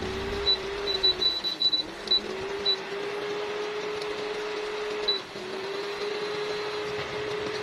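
Flour-coated chicken pieces sizzling as they fry in a pan of oil, a steady hiss with a steady hum underneath. A few light knocks in the first three seconds.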